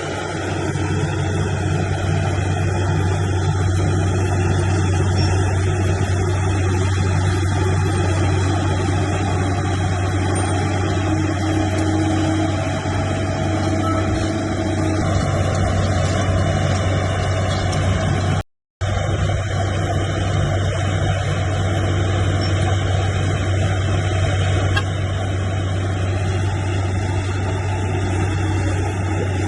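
Heavy diesel engine of earthmoving machinery running steadily with a deep low hum, cutting out for a moment about two-thirds of the way through.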